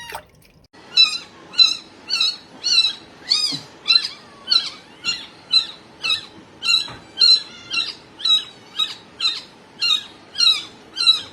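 Kitten meowing over and over: short, high-pitched cries that rise and fall, about two a second.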